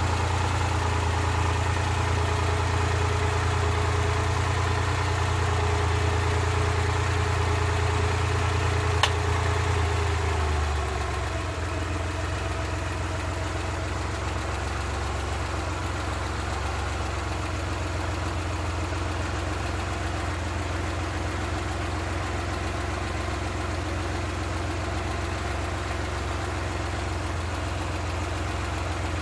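Suzuki F6A three-cylinder engine idling steadily. About nine seconds in there is a sharp click, and a second later the idle settles to a slightly lower, quieter note.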